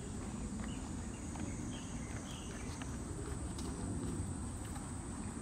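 Outdoor woodland ambience: a faint, steady insect drone over a low rumble, with a few faint ticks.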